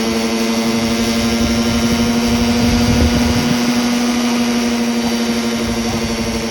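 Engine-powered scale RC helicopter running at a steady speed, its engine and rotors giving one steady, unchanging drone, with a burst of low rumbling about three seconds in.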